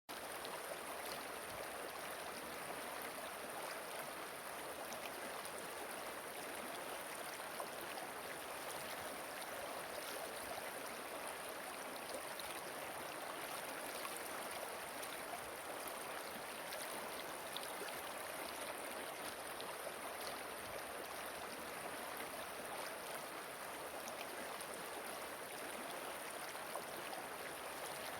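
Steady rush of flowing water, starting abruptly out of silence.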